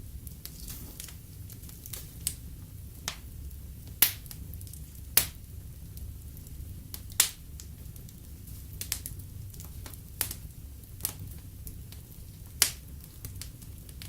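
Wood fire in a fireplace crackling: a steady low rumble of flames with sharp pops at irregular intervals, a few of them much louder than the rest.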